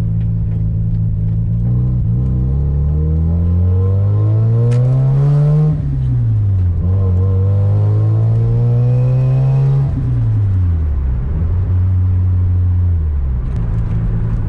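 Mazda RX-7's turbocharged 13B rotary engine heard from inside the cabin, pulling up through the revs, dropping suddenly at a gear change about six seconds in, and pulling again. The revs then fall away smoothly as the throttle is eased, settling back to a steady cruise. The exhaust is loud enough that the owner finds it a bit too loud for a street car.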